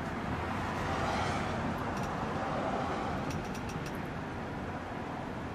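Steady rush of road traffic, swelling slightly in the first couple of seconds.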